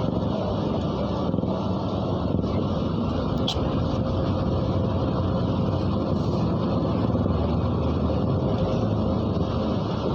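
A MAZ-103 city bus driving, heard from on board as a steady run of engine and road noise. A brief high squeak comes about three and a half seconds in.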